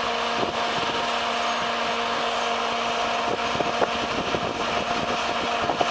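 A machine's engine running steadily with a constant whine, with scattered light clicks and knocks.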